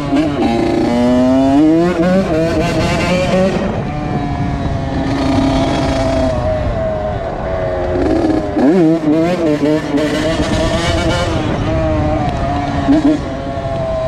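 2001 Honda CR80's two-stroke single-cylinder engine revving as the bike is ridden, its pitch rising and falling several times. No knocking stands out; the rider hears no noise.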